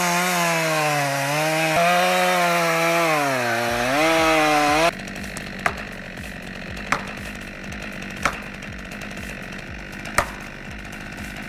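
Chainsaw cutting, its engine pitch rising and sagging under load, which stops abruptly about five seconds in. A quieter stretch follows with four sharp knocks one to two seconds apart.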